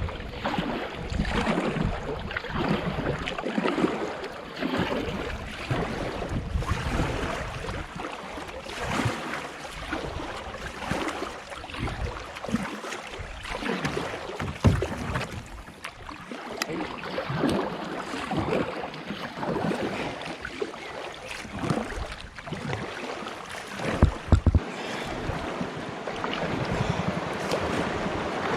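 Canoe paddle strokes through river water, a short splash every second or two, with wind on the microphone and a couple of sharper knocks. Near the end a steadier rush of moving water sets in.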